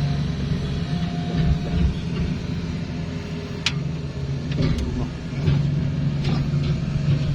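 An engine running steadily with a low hum, with several sharp clicks and knocks scattered through it, the clearest about halfway.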